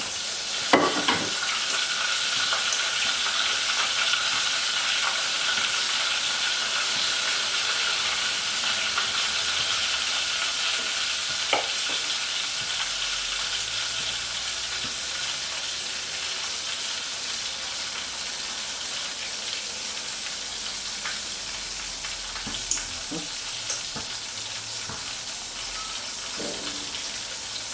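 Flour-coated chicken breast deep-frying in a pot of hot oil: a steady dense sizzle that eases slightly over the stretch, with a few faint clicks.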